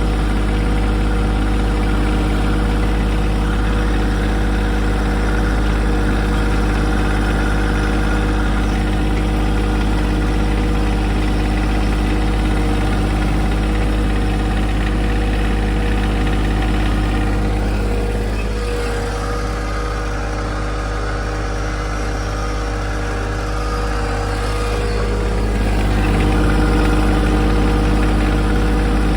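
John Deere 2025R compact tractor's three-cylinder diesel engine running steadily while driving over freshly tilled ground to pack it down. Its level dips a little about two-thirds of the way through, then comes back up.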